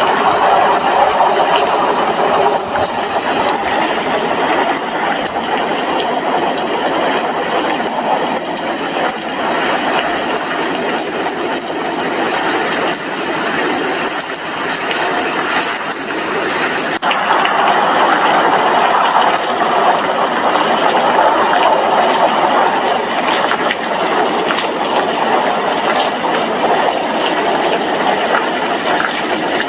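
Steady rain falling at an apartment window: a dense, even hiss full of fine drop impacts, whose texture shifts abruptly for a moment just past the middle.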